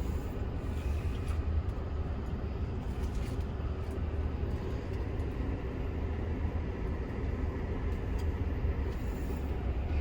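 Steady low rumble of a moving Amtrak passenger train, heard from inside the car, with a few faint clicks over it.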